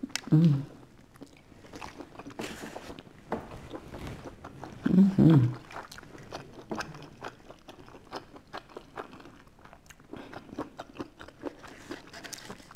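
Close-up biting and chewing of thin-crust pizza, with many small crisp crunches and wet mouth clicks throughout. Twice, about half a second in and again about five seconds in, a short hum from the eater's voice rises above the chewing.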